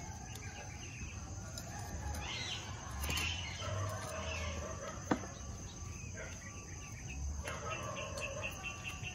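Faint birds chirping in the background, with a quick trill near the end, and a single sharp click about five seconds in.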